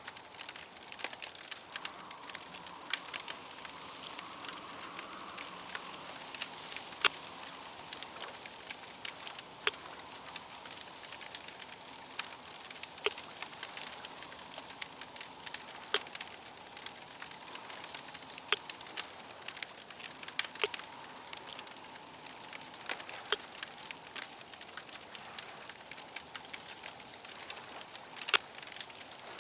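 Campfire crackling: sharp, irregular pops and snaps over a steady hiss, with a faint wavering tone underneath.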